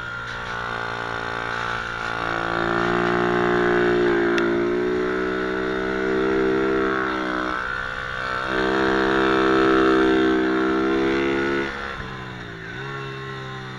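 Pit bike engine running under throttle: it swells twice, with a brief let-off about eight seconds in, then eases back near the end with a short dip in pitch.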